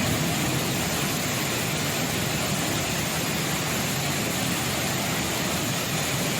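Waterfall in flood: a steady, even rush of heavy falling water.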